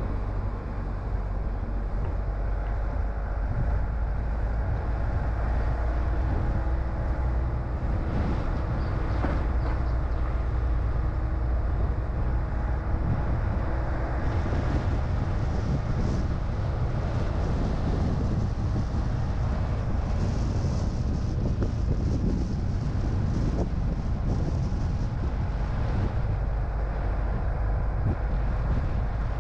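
Car driving on town roads: steady low rumble of engine and tyre road noise, with a brighter tyre hiss coming in about halfway through.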